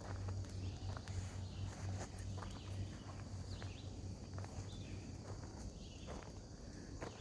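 Footsteps walking along a trail at an irregular pace, with a steady high-pitched insect chorus behind.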